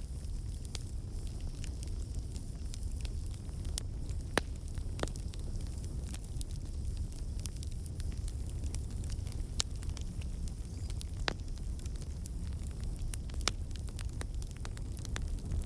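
Campfire of burning logs crackling: irregular sharp pops and snaps over a steady low rumble, with a few louder pops scattered through.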